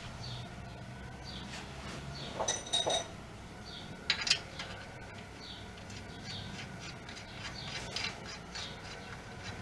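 Small birds chirping repeatedly, short falling chirps, with a couple of sharp metal clinks, one ringing briefly, a few seconds in.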